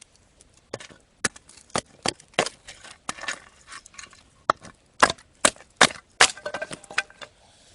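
Firewood being split by hand: about a dozen sharp wooden knocks and cracks at irregular spacing, the blade working against a knot in the wood.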